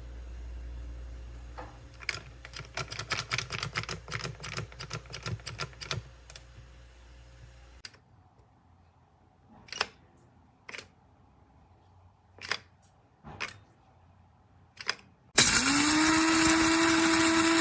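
A quick run of rattling clicks and then a few separate knocks, followed near the end by a BLACK+DECKER One Touch blade coffee grinder's 150-watt motor starting up and running with a loud, steady whine.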